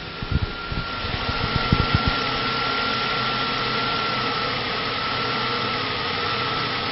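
2006 Ford Ranger's 2.3-litre four-cylinder engine: a few low thumps in the first two seconds, then running steadily with a thin, steady high whine over it.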